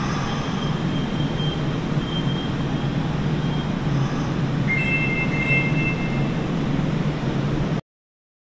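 Steady low rumble inside a Hanshin 8000 series train car, with a few faint high-pitched tones about halfway through. The sound cuts off abruptly into silence near the end.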